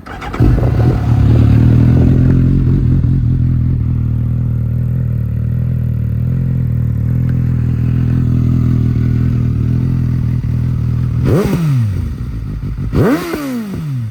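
Suzuki GSX-S750's inline-four through a Yoshimura SQ11 slip-on exhaust with no dB killer, starting up about half a second in and settling into a steady idle. Near the end the throttle is blipped twice, the revs rising sharply and falling back each time.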